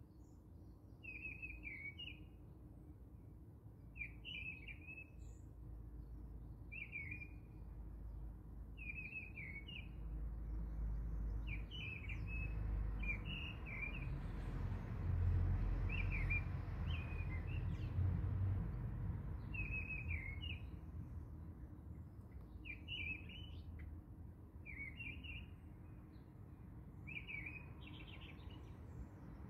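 A small bird chirping over and over, a short call roughly every second or two, over a low rumble that swells in the middle and fades again.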